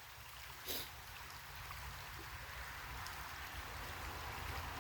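A creek flowing: a soft, steady rush of water that grows slightly louder, with one short click under a second in.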